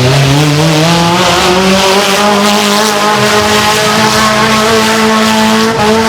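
Mini monster truck's engine revving up and held at steady high revs while the truck spins donuts. The pitch climbs over the first second or two, then stays up until near the end.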